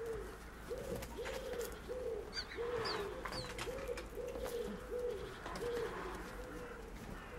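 A bird calling a steady run of soft, low cooing notes, about two a second, all at one pitch. A few high chirps from a small bird come in about two to three seconds in.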